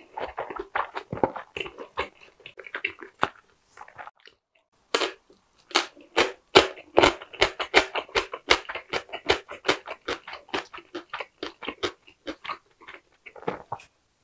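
A person chewing a large steamed meat dumpling (gogi wang-mandu): a quick run of mouth smacks and clicks, pausing briefly about four seconds in, then coming faster until just before the end.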